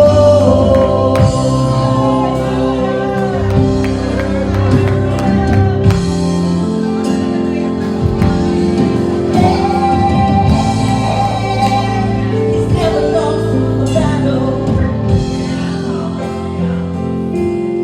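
Gospel worship song: voices singing over sustained instrumental chords.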